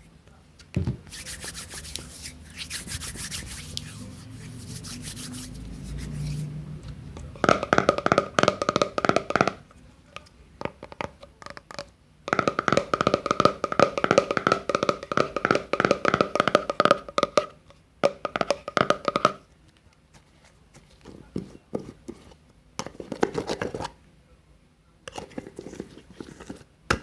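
Hand sounds close to the microphone: crackly rubbing and rustling that comes in bursts of a few seconds, with short pauses between them.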